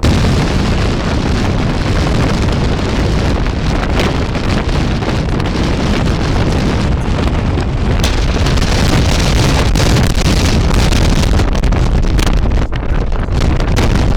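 Strong sandstorm wind buffeting the microphone: a loud, continuous low rumble with a rushing hiss over it, gusting slightly stronger past the middle.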